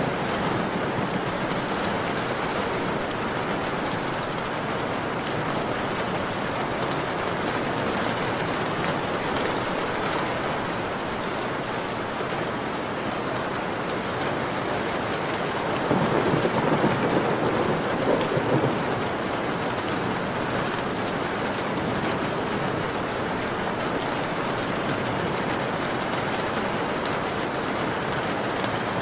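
Steady rain falling, an even hiss. About sixteen seconds in, a louder, lower swell lasts two to three seconds before the rain settles back.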